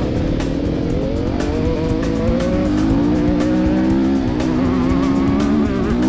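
Motocross bike engine under throttle, its pitch climbing over the first few seconds, holding high, then dropping briefly near the end before picking up again as it shifts, with music playing along.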